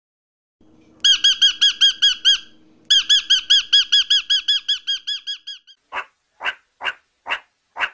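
Blue-headed parrot calling: a fast run of high, squeaky chirps, about five a second, in two bouts, the second trailing off. Near the end, short sharp calls come about twice a second.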